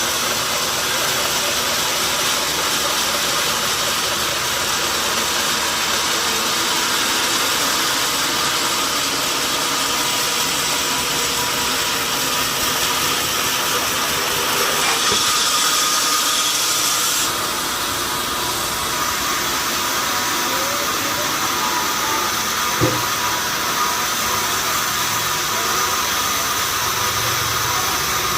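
Sawmill saw machinery running steadily, a loud mechanical hum with a high whine and hiss. The hiss grows stronger for a couple of seconds about halfway through, and there is a single short knock near the end.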